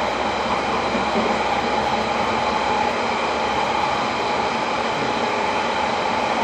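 Interior of a London Underground Central Line train (1992 tube stock) running between stations: steady running noise of wheels on rail with a steady whine.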